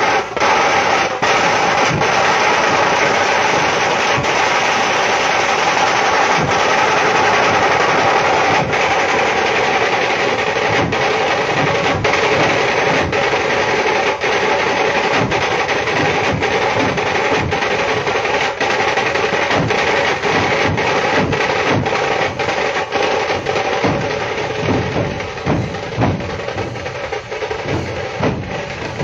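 Loud, continuous drumming with rapid rolls and low drum beats, getting more uneven near the end.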